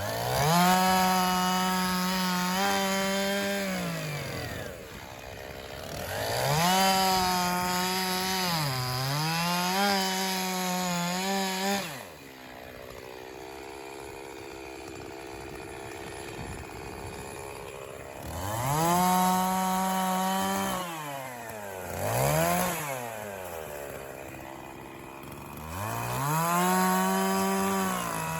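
Echo CS-501P 50cc two-stroke chainsaw cutting white pine logs into firewood rounds. It runs at full throttle through cuts of a few seconds each, about five in all, and drops back toward idle between them, with a longer spell at low speed in the middle.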